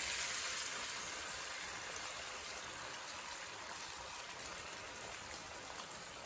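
A steady, even hiss, strongest in the high range, with no distinct events.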